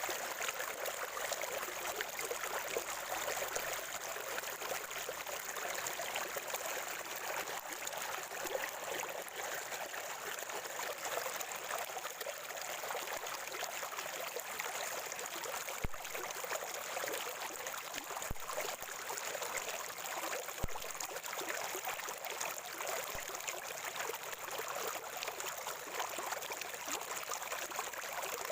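Water from a natural spring flowing and gurgling steadily as a small trickling stream, with a few faint clicks about midway through.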